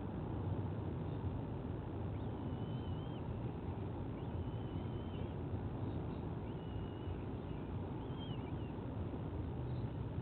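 A series of thin, high, wavering whistled bird calls, about five, each up to a second long, over a steady low rumble.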